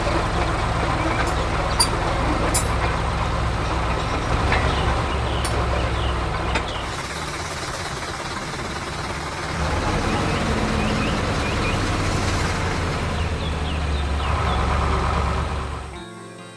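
Heavy diesel machinery running steadily, with a few sharp clicks and knocks. The drone eases off about seven seconds in, builds again about ten seconds in, and falls away near the end.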